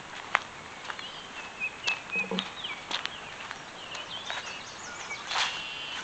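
Small birds chirping in short, varied calls over a steady outdoor hiss, with scattered sharp clicks.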